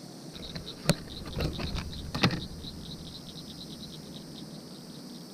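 A frog calling around the pond with a rapid, even series of high clicking notes. Two sharp knocks, the loudest sounds, come about one and two seconds in.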